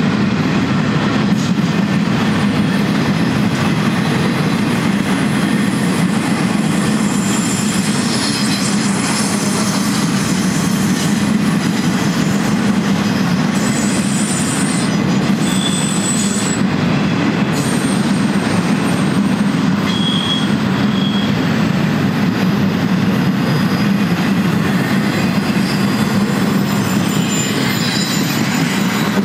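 BNSF double-stack intermodal train's well cars rolling past, a steady loud rumble of steel wheels on rail. A few brief high-pitched wheel squeals come in around the middle.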